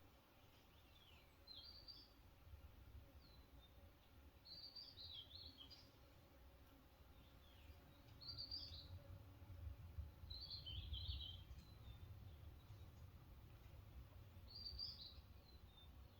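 Faint bird chirps: short clusters of high calls every two to four seconds, over a low background rumble.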